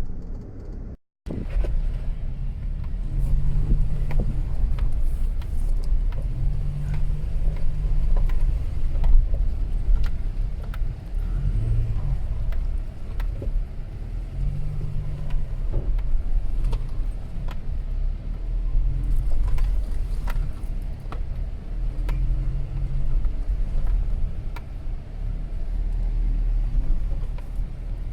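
A car driving slowly over a rough dirt track, heard from inside the cabin: a low engine and road rumble with scattered knocks and rattles from the bumpy surface. The sound cuts out briefly about a second in.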